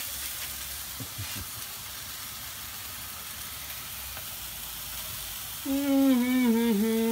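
French fries deep-frying in a pot of oil and beef patties frying in a skillet: a steady sizzle. Near the end a person's voice holds one drawn-out sound for about a second and a half, louder than the frying.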